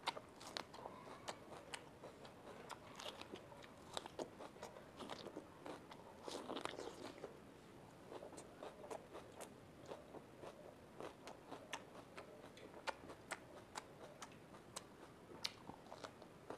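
Crisp bites and chewing of a raw yellow capsicum (bell pepper): a steady run of sharp crunches. A denser stretch of chewing comes about six to seven seconds in.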